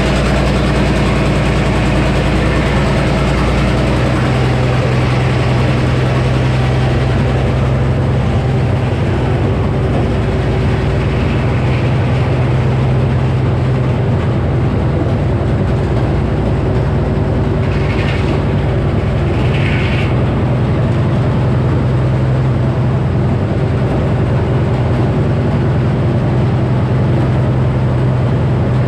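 The engine powering a Frick sawmill, running steadily; its note changes about four seconds in. Two short higher bursts come a couple of seconds apart in the second half.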